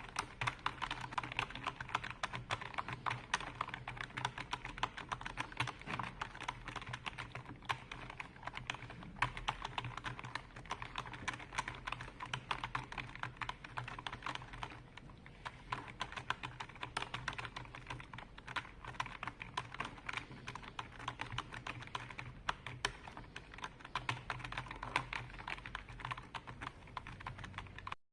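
Fast, continuous typing on a computer keyboard, keystrokes clicking in a dense, uneven stream, briefly cutting out at the very end.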